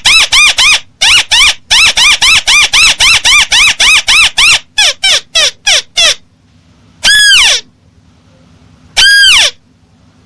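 Recorded lure call of a tikusan crake: a fast run of short notes that each rise and fall, about five a second, slowing and breaking off about six seconds in. Then two longer notes slide down in pitch, about two seconds apart. The playback is loud and harsh, with heavy overtones.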